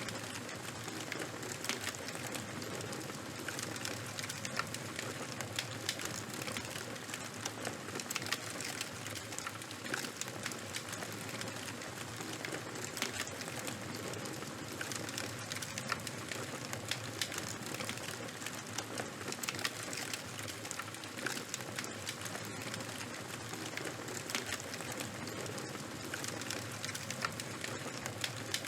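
Charcoal and wood fire burning: a steady hiss dense with small crackles and pops.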